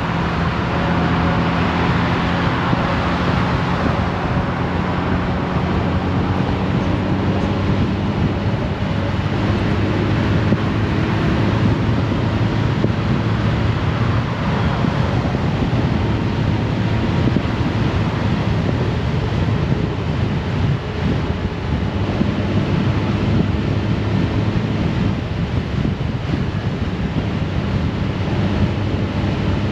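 Honda Gold Wing's flat-six engine running steadily at road speed, with wind rushing over the microphone.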